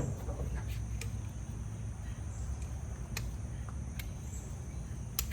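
Crickets trilling in a steady high tone over a low rumble, with a few sharp clicks scattered through.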